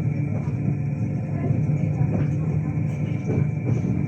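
Steady low rumble and hum of a vehicle heard from inside, with a few faint knocks.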